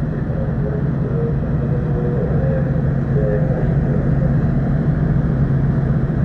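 Steady, loud low engine drone.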